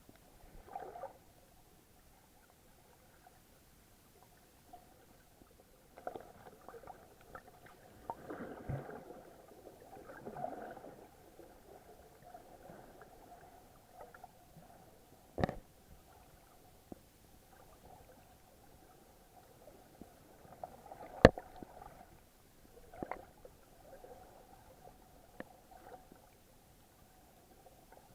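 Muffled underwater sound picked up by an action camera in its waterproof housing while snorkeling: faint gurgling and bubbling in scattered patches, with a few sharp clicks or knocks, the loudest about 21 seconds in and another about 15 seconds in.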